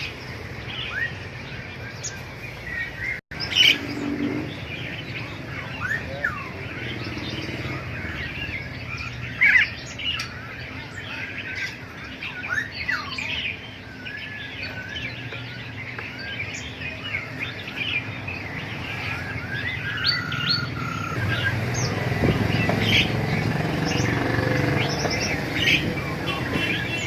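Many caged birds chirping and tweeting at once, a dense, overlapping chatter of short calls with no single bird standing out.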